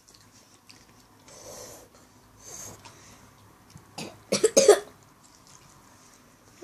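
A child coughing while struggling to eat a mustard-topped pancake: a couple of breathy huffs, then a burst of loud, harsh coughs about four seconds in.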